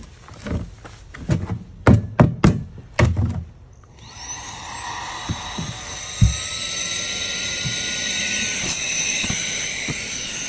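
Knocks and clicks as a handheld car vacuum cleaner is handled, then about four seconds in its motor switches on with a rising whine and runs steadily.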